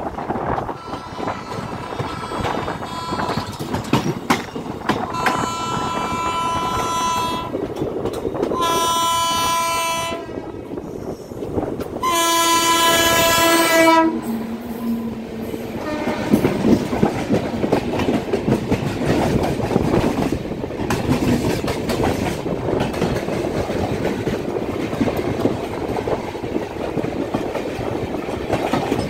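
Indian Railways locomotive horn sounding four long blasts, the last the loudest, with a brief lower note after it. Then the rumble and clickety-clack of the train's LHB coaches running past close by.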